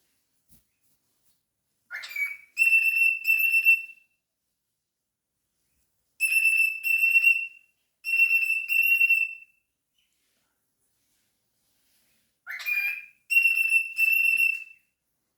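Pet cockatiel whistling three short phrases of high, steady notes, each made of two or four notes in pairs, with a quick rising chirp before the first and last phrases.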